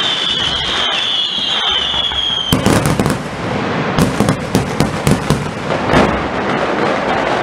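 Fireworks going off in a crowded display. A whistling firework's tone falls slowly and cuts off about two and a half seconds in, over steady crackling, then a quick run of sharp bangs comes from about four to six seconds in.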